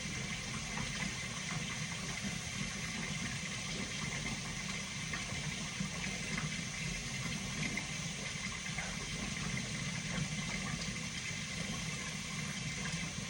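Steady low hum with an even hiss over it, from a running motor.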